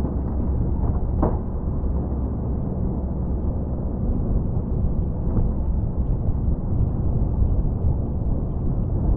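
Snow-plow truck running with a steady low rumble and noise, with one sharp knock about a second in and a fainter one a few seconds later.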